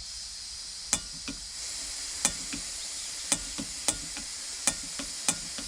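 Gas hissing steadily from the open valve of a portable camping gas stove while its piezo igniter clicks again and again, seven or eight times, without the burner catching.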